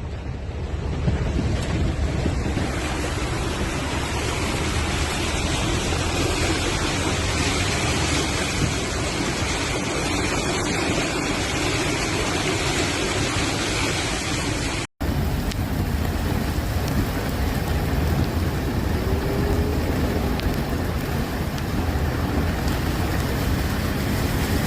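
Floodwater torrent rushing steadily, mixed with wind buffeting the microphone. The sound drops out for an instant about 15 seconds in, where one clip is cut to the next.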